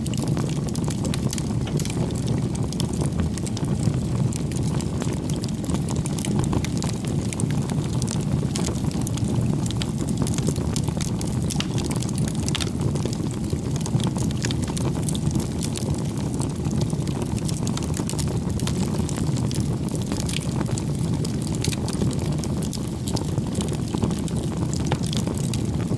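Campfire burning steadily, with a low rushing sound of the flames and frequent small crackles and pops from the burning wood.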